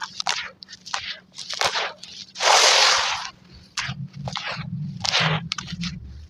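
Gritty crunching as charcoal and brick chunks are crumbled, played at double speed: a quick run of short crunches, with one longer, louder crumble about two and a half seconds in.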